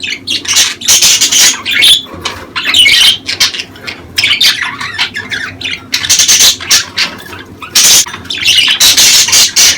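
Budgerigars chattering, warbling and squawking in a dense, continuous stream of overlapping calls: the kind of budgie flock chatter played to stimulate breeding.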